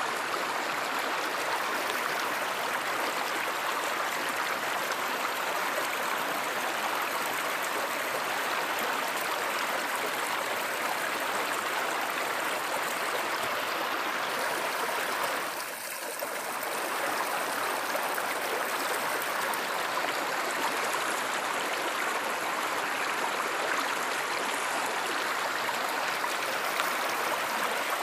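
Steady rushing and babbling of a flowing river or stream, dipping briefly about halfway through.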